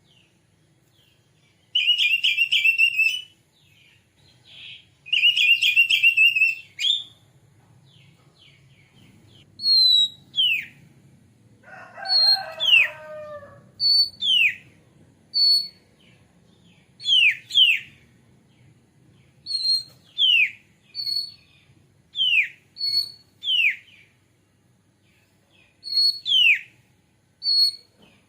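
Oriental magpie-robin (kacer) song: two chattering trills about two and five seconds in, a lower, fuller falling call near the middle, then a run of clear whistles, each a short high note followed by a quick downward slur, repeated about every second and a half.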